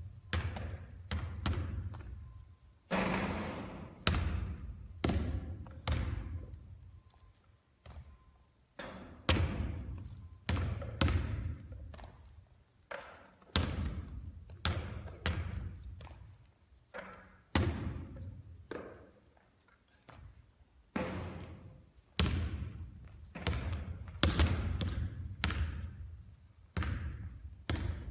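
A basketball bouncing on a court again and again, roughly one or two impacts a second, each trailing off in a short echo.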